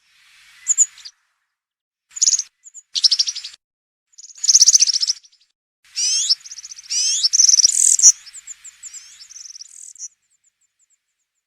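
European serin singing: several short bursts of its high, fast jingling song, then a longer phrase with rising sweeps from about six seconds in, stopping about ten seconds in.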